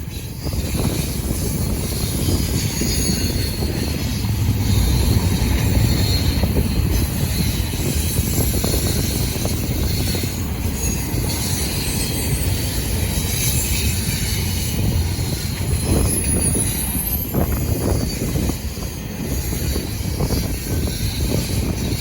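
Freight train cars rolling past at track side: a steady rumble of wheels on rail with faint wheel squeal and a few clunks of wheels over rail joints.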